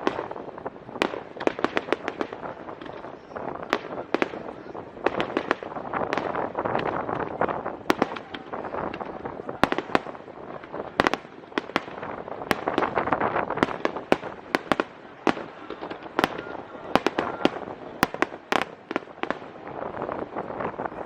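Aerial fireworks bursting in quick, irregular volleys of sharp reports, with a dense crackle that swells twice.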